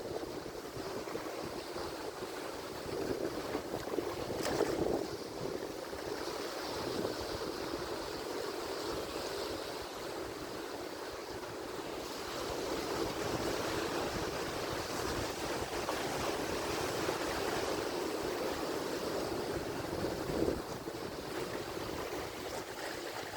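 Ocean surf: waves washing and breaking in a continuous rushing noise that swells and eases as the sets come in, with a stronger surge about four seconds in and a long build from about twelve seconds.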